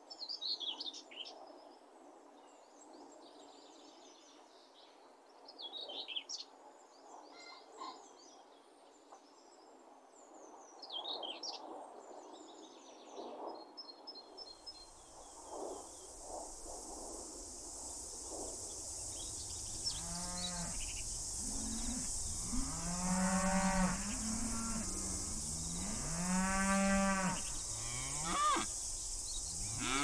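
Cows mooing: several long, low calls in the second half, over wind hiss. Before that, small birds chirping.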